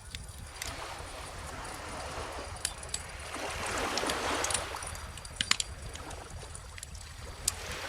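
Bonfire crackling, with sharp pops scattered through, over calm ocean waves washing in; one wave swells up and fades away about halfway through.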